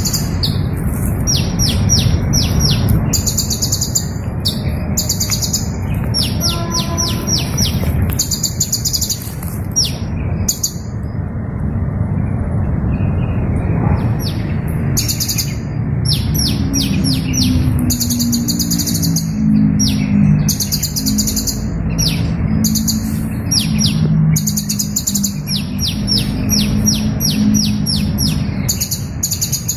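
Small bird chirping in high, thin notes, in short repeated phrases and quick rapid-fire series of ticks, with a pause of a few seconds about a third of the way in. A steady low rumble runs underneath.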